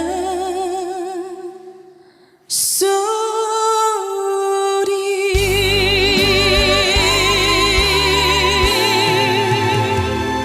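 Female voice singing a slow trot ballad, holding long notes with a wide vibrato over soft accompaniment. The first note fades out about two seconds in, a new long note starts just after, and fuller band accompaniment with a strong low end comes in about five seconds in.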